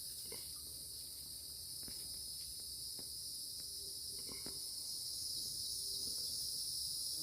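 Steady, high-pitched insect chorus, with a few faint clicks and knocks.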